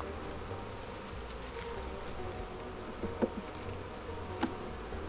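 Honeybees buzzing in a steady hum around an open hive, with a few light knocks about three seconds in and another a little over a second later.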